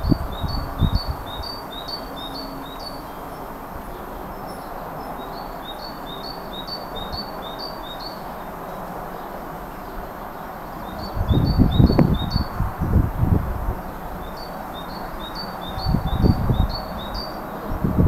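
A small songbird singing a phrase of about seven quick, high two-part notes, repeated four times with short pauses. Low rumbling bursts come twice in the second half, louder than the song.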